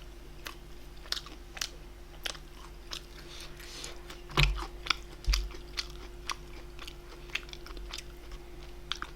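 A person chewing and biting food close to the microphone, with wet mouth clicks scattered throughout and two soft low thumps about halfway through.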